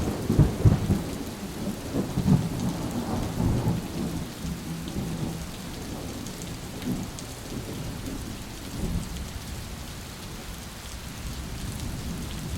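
Rolling thunder over steady rain. The rumble is loudest in the first few seconds, swells a few more times, and then dies away while the rain keeps falling.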